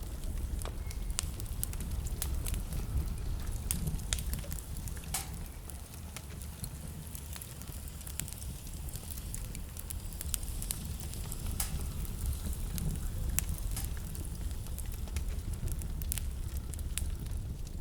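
Wood fire crackling in a fireplace, with irregular sharp pops and snaps scattered throughout, over a steady low rumble of blizzard wind.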